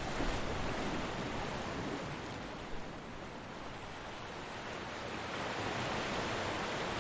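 Ocean surf washing onto a beach as a steady rushing hiss, easing a little midway and swelling again as the next wave comes in.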